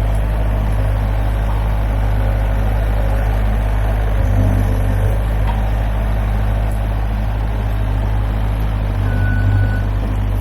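Bobcat S175 skid-steer loader's diesel engine running steadily under work, with slight swells in engine load. A single short high beep sounds near the end.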